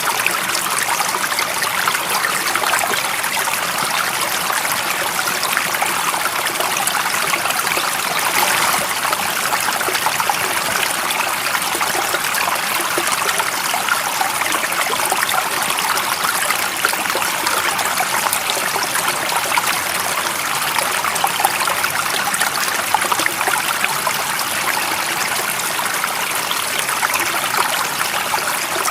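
Steady running water of a stream, an even splashing rush with no breaks or changes.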